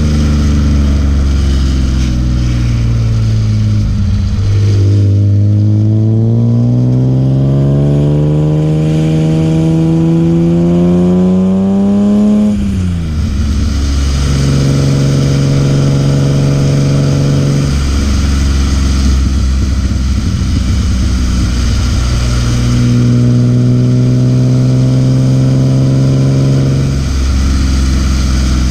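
BMW E36 M3's S50B30 straight-six engine under load. Its revs climb steadily for about eight seconds, drop sharply, then hold at steady revs in two long stretches with a short break between them.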